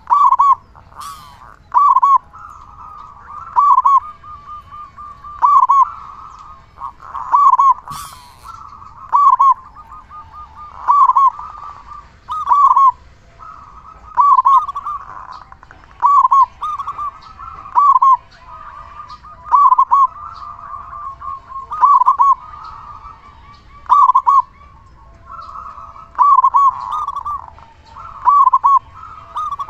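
Zebra dove (perkutut) singing its repeated cooing song: a rolling, purring trill followed by loud clipped coo notes, one phrase about every two seconds.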